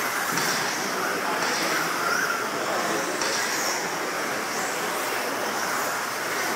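A pack of 1/10-scale electric RC stadium trucks racing on a dirt track, their electric motors whining as they accelerate and slow, over a steady rush of noise.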